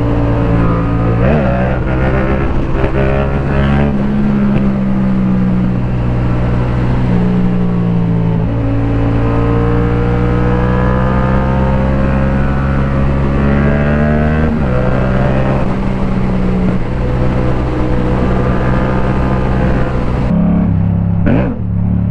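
Motorcycle engine running under way, holding a steady pitch for stretches with a few changes in revs. Near the end the engine blips up sharply twice.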